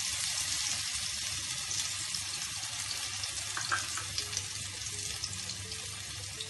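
Semolina-coated eggplant slice shallow-frying in hot oil in a pan: a steady sizzle with small crackles and pops, slowly easing off.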